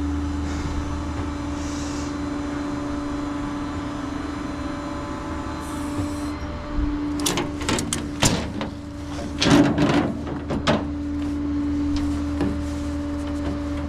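Tow truck running with a steady drone and hum, with a run of knocks and clatter from about seven to eleven seconds in.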